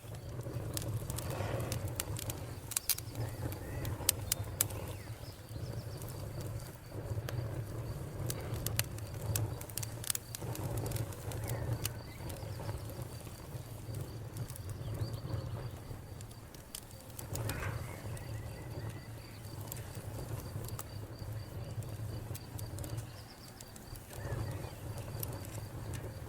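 Wood fire burning in a fireplace: sharp crackles and pops of the burning wood over a low, swelling rumble. The pops are thickest during the first few seconds and then come more sparsely.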